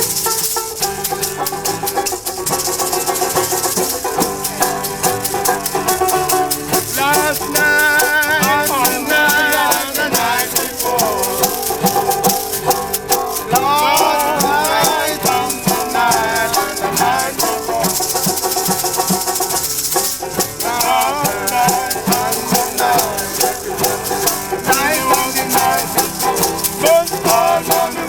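Acoustic band music: maracas shaking a fast, steady rhythm over plucked strings, with a melody line coming in and out in short phrases.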